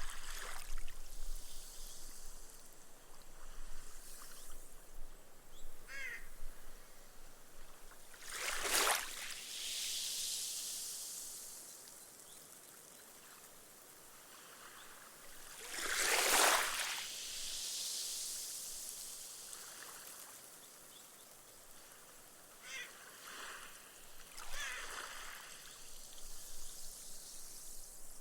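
Small, long-period waves washing up a sandy shore: two larger washes about eight and sixteen seconds in, each trailing off in a long fizzing hiss as the foam soaks into the sand, with smaller laps between.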